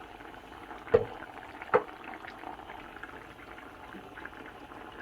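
Chicken, mushroom and double cream sauce bubbling steadily as it cooks, with two sharp knocks about a second apart near the start.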